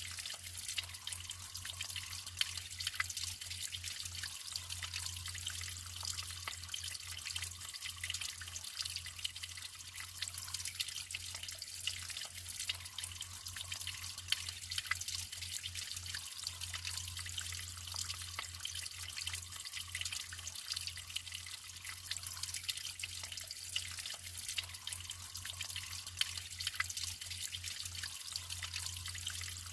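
Naturally flowing water trickling and splashing steadily, with many small drips and plops through it. A faint, flickering low hum sits underneath.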